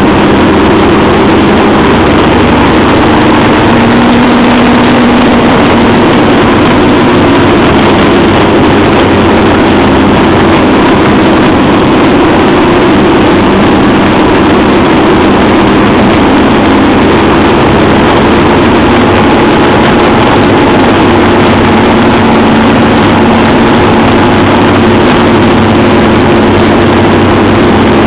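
Motorcycle engine running steadily on the road, very loud, with only small shifts in pitch and a constant rushing noise over it.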